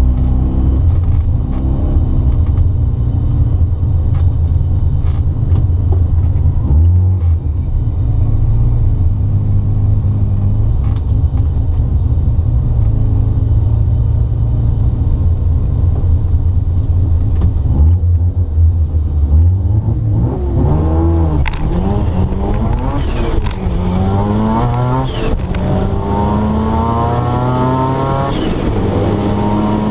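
Turbocharged 13B rotary engine of a 1972 Mazda RX2, heard from inside the cabin: a lumpy, uneven idle at the start line, then about two-thirds of the way through it launches and accelerates hard, the pitch climbing and dropping back at each gear change.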